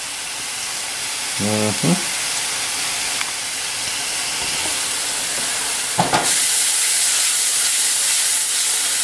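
Pheasant back (dryad's saddle) mushrooms frying in a pan in oil with a splash of beer reducing: a steady sizzle. A sharp knock about six seconds in, after which the sizzle turns louder and hissier.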